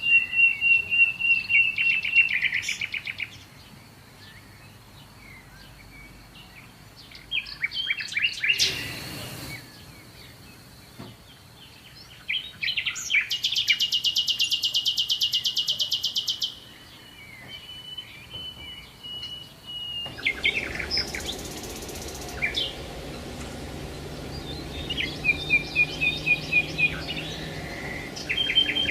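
Several songbirds singing and calling: fast runs of repeated high notes, scattered chirps, and a long rapid buzzy trill near the middle. A brief burst of noise about nine seconds in.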